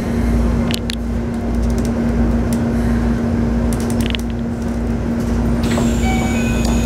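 Interior running sound of a Keikyu New 1000 series train with a Toyo IGBT-VVVF inverter: a steady hum over a rhythmic low rumble from the running gear, with a couple of light clicks. Near the end a few thin, high whistling tones come in.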